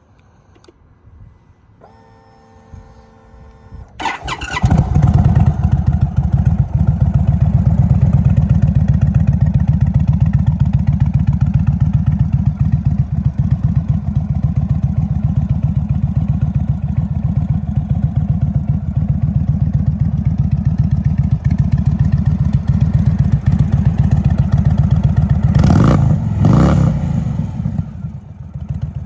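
An Indian Chief Dark Horse's air-cooled Thunderstroke 116 V-twin is started: a brief steady hum, then the engine catches about four seconds in and idles loudly with an even pulse. Near the end the throttle is blipped twice, and the engine settles to a quieter idle.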